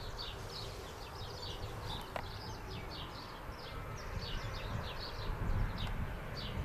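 Small birds chirping in quick short notes, several a second, over a steady low rumble.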